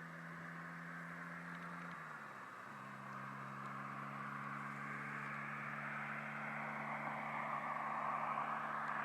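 Chevrolet Cobalt SS engine heard from a distance at full throttle, getting steadily louder as the car approaches. Its note steps down in pitch about two seconds in, then holds steady.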